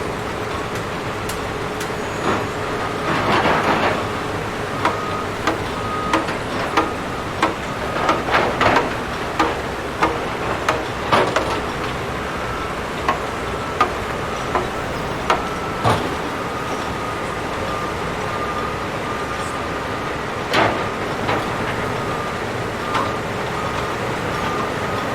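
Demolition machinery running steadily, with a series of sharp clanks and crashes from the demolition, coming thick and fast for most of the first sixteen seconds, then a few more later on.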